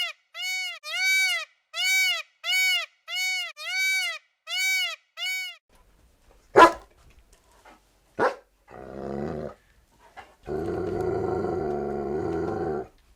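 An animal calling in a quick run of short, evenly spaced yelps, about two a second, then two sharp clicks and a long low growl-like call near the end.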